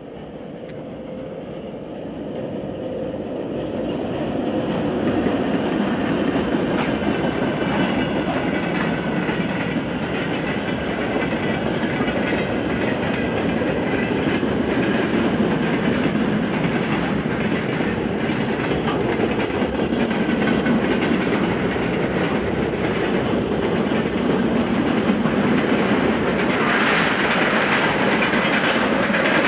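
Freight train of tank wagons rolling across a steel truss railway bridge: steady clatter of wheels over rail joints and a heavy rumble. It builds over the first five seconds, then holds, with a metallic ring that grows louder near the end.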